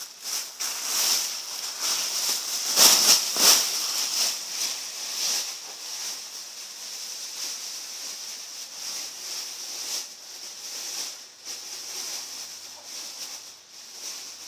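Large plastic trash bag crinkling and rustling as it is pulled over an engine, loudest about three seconds in and then quieter.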